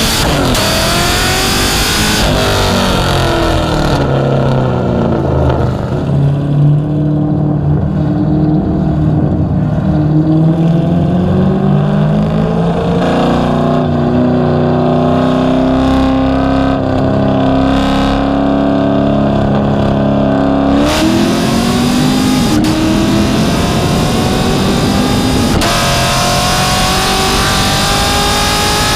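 High-performance car engine accelerating hard. Its pitch climbs, drops back at gear changes a few times and holds level for a stretch in the middle before climbing again.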